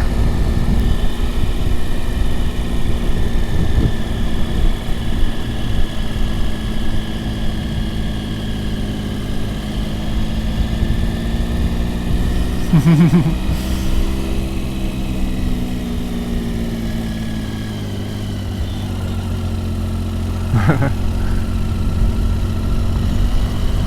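Motorcycle engine running on a climb, its pitch rising and falling gently with the throttle, with steady wind and road noise.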